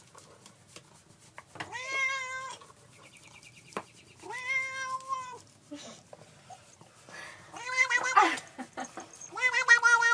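A pet animal calling: two long, level-pitched cries about two seconds apart, then a run of shorter, quicker cries near the end.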